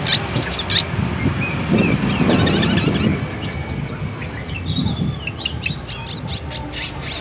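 Cucak jeling songbird singing a busy run of short chirps, slurred whistles and rapid trills, over a low rumbling noise that swells about two seconds in.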